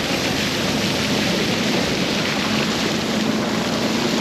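A boat underway on a river: a steady rush of water and wind noise, with a low, steady motor hum coming in about halfway through.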